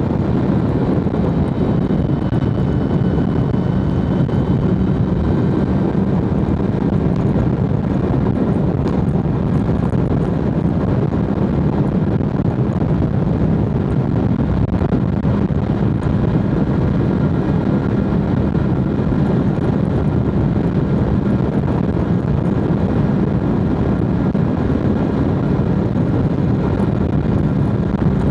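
BMW S1000RR inline-four engine and exhaust running at a steady pace while being ridden, holding an even pitch with no clear gear changes.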